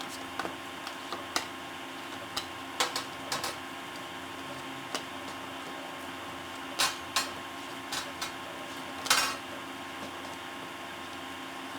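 Scattered light clicks and taps, with a few sharper knocks around seven and nine seconds in, over a steady electrical hum.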